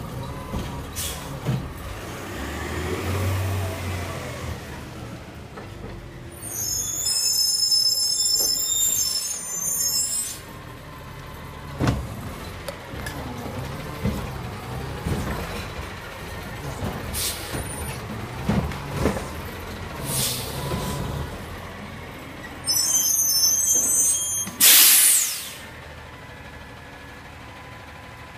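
Recycling garbage truck working: its diesel engine runs under loud hissing of compressed air in bursts, a few knocks and clanks, and a strong air-brake hiss about 25 seconds in.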